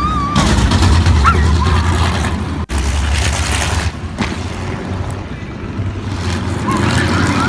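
Race car engines running loudly at speed, cut together from separate clips, with an abrupt break between them about two and a half seconds in.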